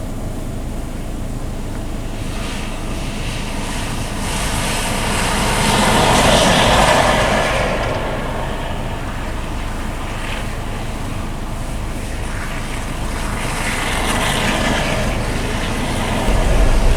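Steady vehicle and wind noise: a car driving through a blizzard, with a low rumble underneath and the noise swelling louder twice, about six and fourteen seconds in.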